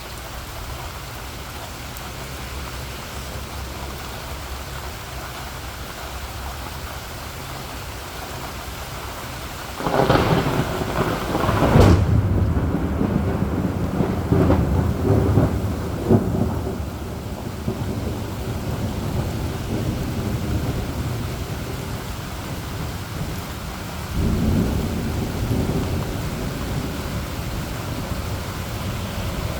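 Heavy rain falling steadily in a thunderstorm. About ten seconds in, a loud clap of thunder breaks into a long rolling rumble with several surges that fades over the following seconds, and a second, weaker rumble of thunder comes near the end.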